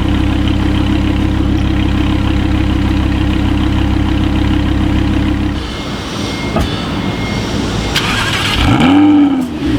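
Lamborghini engine idling steadily; a little over halfway through the idle drops away. Near the end the engine fires up with a start-up flare, the revs climbing sharply and falling back to idle.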